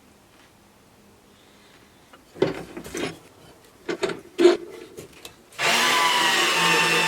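A few short scraping and knocking handling sounds, then a power tool's motor starts abruptly a little over halfway through and runs steadily with a whine.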